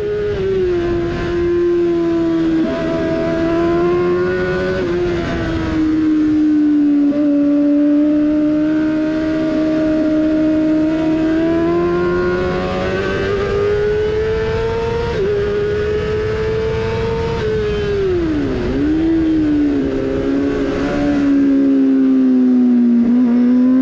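Yamaha R6 600cc inline-four engine at racing revs, heard from onboard with wind noise over it. Its pitch rises and falls with the throttle and gearchanges, dropping sharply for a moment about three-quarters of the way through before climbing again.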